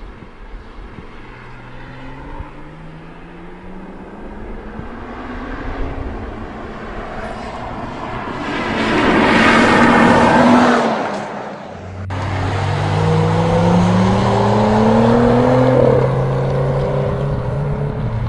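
BMW 4 Series Gran Coupé engine accelerating, its pitch climbing through the revs. The sound swells loudly as the car passes close about halfway through. It then pulls hard again with a steeply rising note that drops suddenly at an upshift near the end.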